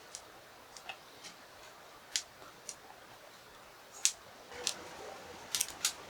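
Someone eating: about a dozen short, sharp clicks spread unevenly, with small mouth and utensil noises between them.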